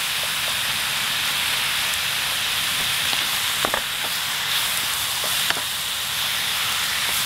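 Raw chicken thigh pieces sizzling steadily in hot oil in a frying pan while a wooden spatula stirs them, with a few light clicks.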